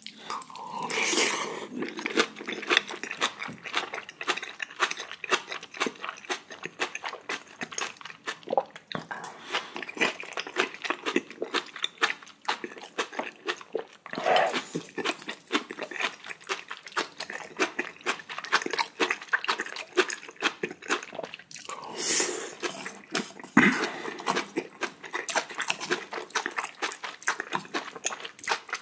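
Close-miked chewing of spicy braised kimchi wrapped around beef large intestine (daechang): continuous wet, clicky smacking mouth noises. A few louder bursts come near the start, about halfway, and around two-thirds of the way through.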